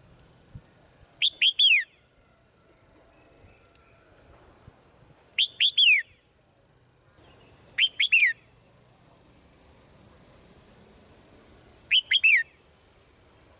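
Swallow calling: four short bursts of three or four quick, high, falling chirps, a few seconds apart. A steady high hiss runs underneath.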